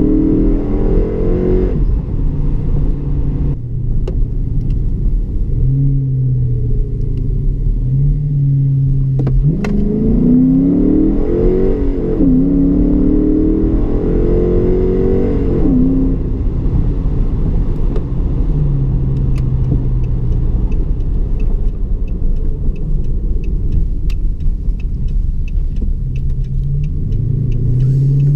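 Dodge Charger R/T's 5.7-litre Hemi V8 through a Magnaflow exhaust with two oval mufflers and the resonators deleted, running with a deep rumble. About ten seconds in the revs climb, drop back and climb again, then settle to a steadier lower drone.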